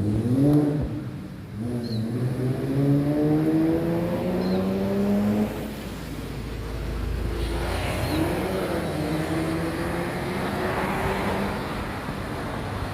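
A car engine accelerating. Its pitch climbs steadily for about five seconds, then dips, and climbs again more briefly about eight seconds in.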